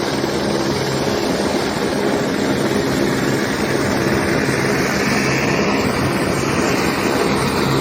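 Helicopter in flight, its engine and rotor giving a loud, steady noise.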